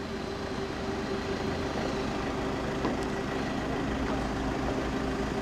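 A vehicle engine idling with a steady, unchanging hum.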